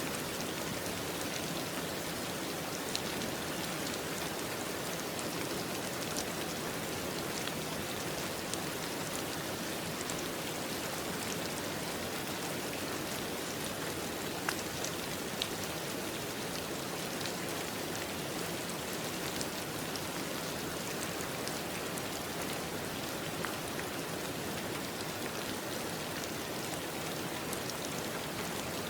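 Steady rain falling on a surface, with scattered individual drops ticking over the even hiss of the downpour.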